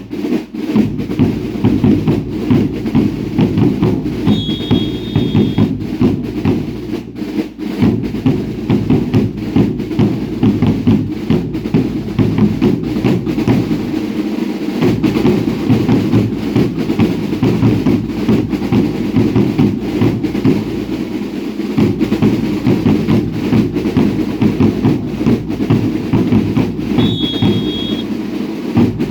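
Drums of a traditional baile indio dance troupe beating a steady, driving rhythm, with bass drums and snares together. A short, high whistle-like tone cuts through twice, about four seconds in and again near the end.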